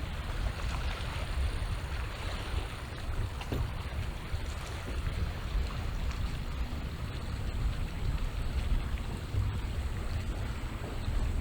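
Wind rumbling on the microphone over a steady hiss of small waves washing on the shore.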